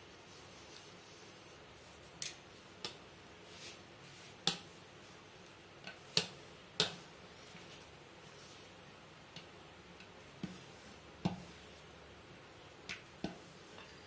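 Irregular light taps and clicks, about a dozen in all, from rolling out small rounds of dough with a rolling pin on a board.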